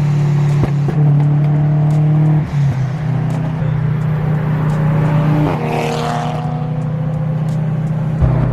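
Car engine and exhaust droning steadily at a constant deep note while cruising, with a brief change around two and a half seconds in and a short sweep in pitch about six seconds in.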